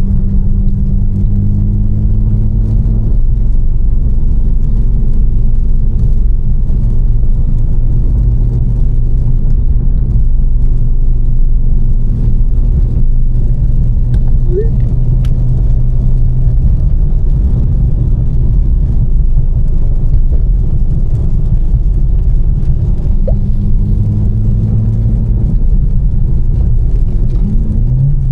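Tuned BMW M4's twin-turbo straight-six, with catless downpipes and an Fi exhaust, droning at steady cruising revs with tyre noise underneath, the pitch settling a little a few times as the throttle changes.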